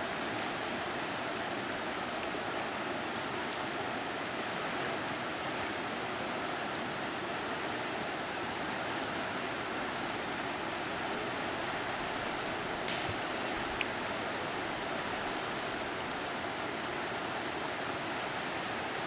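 Fast-flowing Katun River current rushing steadily, with a single faint click about fourteen seconds in.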